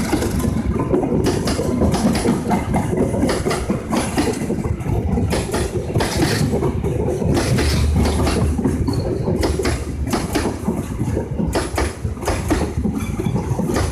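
Diesel train running close by: a heavy, steady engine rumble with many sharp, irregular clacks, typical of a train's wheels and couplings.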